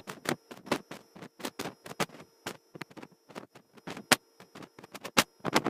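Irregular sharp crackling and clicking on the cockpit headset intercom audio, two or three crackles a second, over a faint steady electronic whine; no engine sound comes through.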